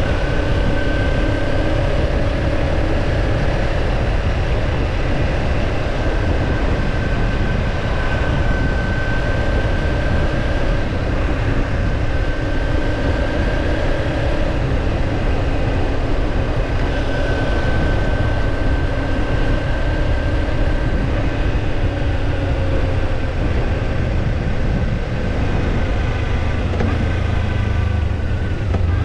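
Kawasaki Ninja 250 parallel-twin engine running at a steady cruise, its pitch drifting gently up and down, under a heavy rumble of wind on the microphone.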